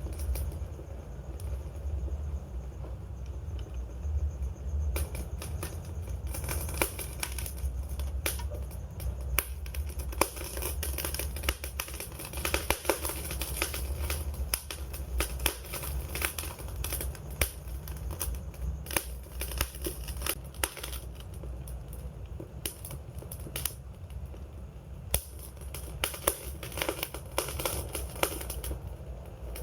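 Wood fire crackling and popping over a steady low rumble. The crackles are sparse for the first few seconds, then come thick and fast.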